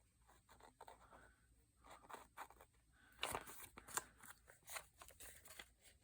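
Faint, scattered rustling and crinkling of book-page paper as it is handled and stitched with needle and thread, with a few slightly louder crackles around the middle.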